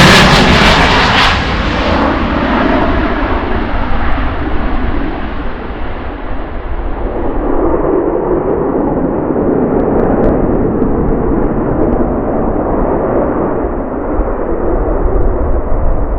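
Fighter jet engine roar just after a close pass, fading as the jet moves away. The crackling high end dies down over the first few seconds, leaving a deep rumble that carries on.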